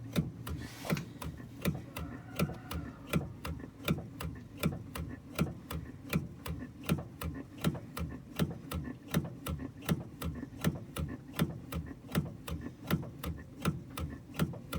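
Front suspension of a Renault Kangoo 2 knocking as the car body is rocked up and down: a rapid, regular series of sharp knocks, a few a second. The knock comes from worn anti-roll bar (stabilizer) bushings and links.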